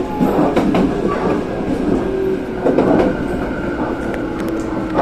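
Passenger train running along the track, heard from inside the carriage: a steady rumble of wheels on rails, with a few sharp clicks from the rails.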